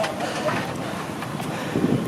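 Strong gusting wind buffeting the microphone, a steady rushing noise.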